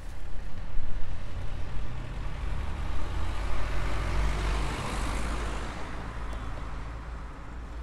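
A motor vehicle passing along the street: a low engine rumble with road noise that swells to a peak about halfway through and then fades as it moves away.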